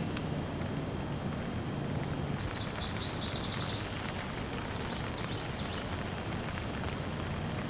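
Steady rain falling, with a bird singing a quick run of high notes about two and a half seconds in for just over a second, then a few fainter notes a couple of seconds later.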